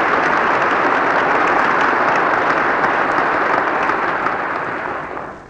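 Applause from a large audience, a dense steady clatter of many hands that dies away near the end, heard through an old 78 rpm disc recording.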